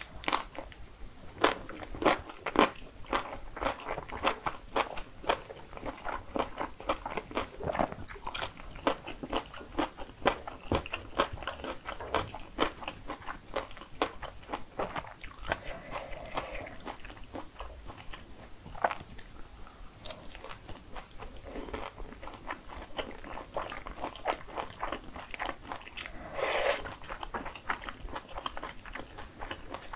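Close-miked eating: crisp crunching bites and chewing of pickled yellow radish and spicy fried chicken. The crunches come thick and fast through the first half, then thin out to scattered bites and chewing.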